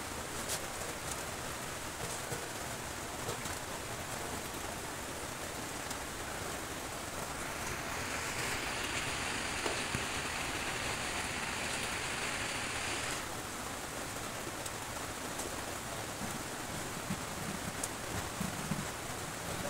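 Steady rain falling, with a louder, hissier stretch from about eight to thirteen seconds in.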